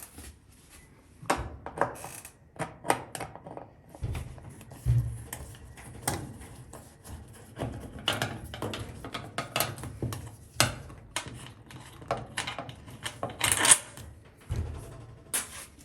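Irregular clicks, knocks and scraping as screws are worked out of a GE dryer's sheet-metal panels, with a low rumble through the middle.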